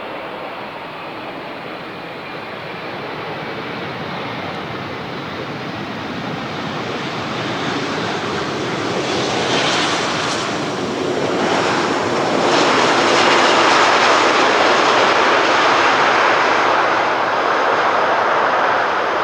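Boeing 777's GE90 turbofan engines at high thrust, a broad jet roar with a faint high whine above it, growing louder from about eight seconds in and staying at its loudest through the second half.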